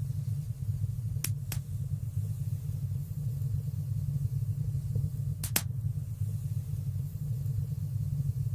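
Fire burning in a fireplace: a steady low rumble of the flames with sharp crackling pops, two close together about a second in and a louder one near the middle.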